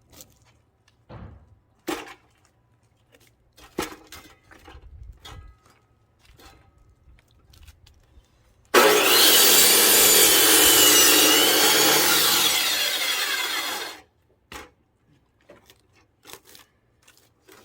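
A power saw cutting into a thick pine log for about five seconds, starting suddenly about nine seconds in and stopping sharply, with a high whine that wavers in pitch as it cuts. Before it, scattered knocks and clunks.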